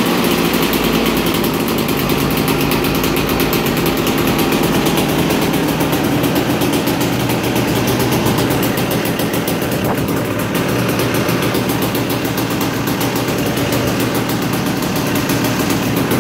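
KTM 380 single-cylinder two-stroke engine running steadily after being kick-started, with a fast, even firing beat.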